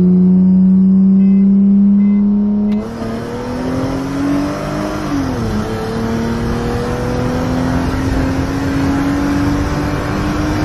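Supercharged 3.2-litre V6 of a Mercedes SLK32 AMG pulling hard under full throttle and boost, heard from inside the cabin: the engine note climbs steadily, drops sharply at an upshift about five seconds in, then climbs again to another upshift right at the end. A rush of hissing noise joins abruptly about three seconds in and stays with the engine for the rest of the run.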